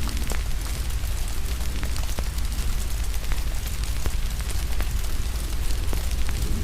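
Crackling wood fire with scattered sharp pops over a steady low rumble and an even hiss of rain.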